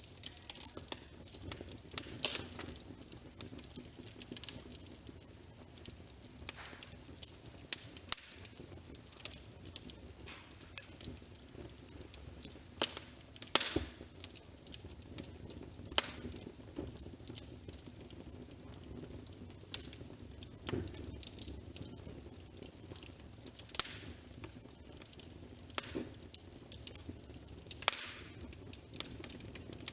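Wood fire crackling in a fireplace: irregular sharp pops and snaps over a low, steady background.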